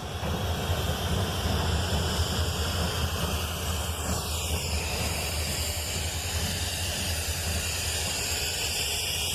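Wind buffeting the microphone: a steady low rumble under an even hiss, with a faint falling tone about four seconds in.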